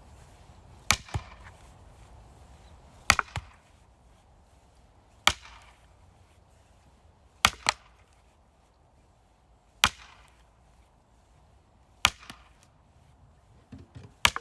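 Axe splitting firewood: seven sharp, evenly paced chops about two seconds apart. Several are followed at once by a smaller knock of wood.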